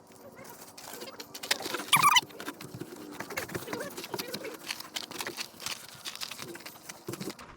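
Hand scrubbing on the wet ATV: rapid scratchy rubbing throughout, with a couple of loud, sharp squeaks about two seconds in.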